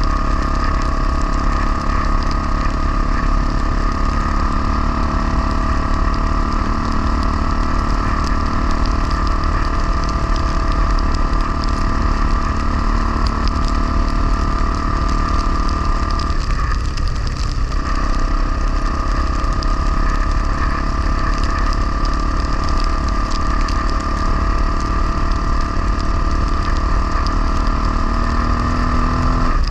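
Honda XR250R's single-cylinder four-stroke engine running at a steady speed while riding, its note dipping briefly a little past halfway before settling back to the same pitch.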